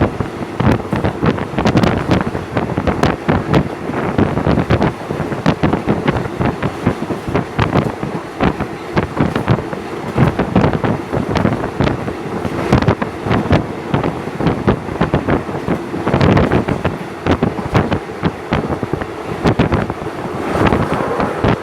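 Wind buffeting the microphone over the steady rumble and irregular clatter of a moving train.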